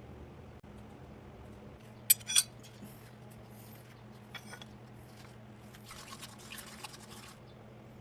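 Two sharp clinks of hard objects about two seconds in, a lighter clink a couple of seconds later, then a short stretch of light scraping, all over a low steady hum.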